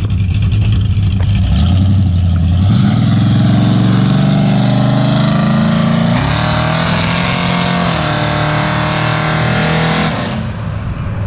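A car engine running at a low, steady speed, then climbing in pitch about three seconds in and again, louder, about six seconds in as it is driven under throttle. It holds there until it falls away near the end.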